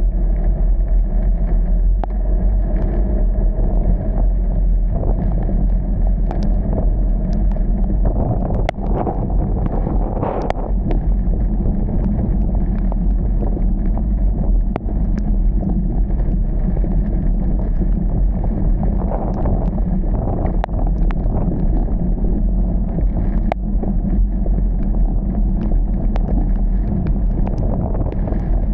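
Steady low rumble of a car on the move, with scattered sharp ticks throughout.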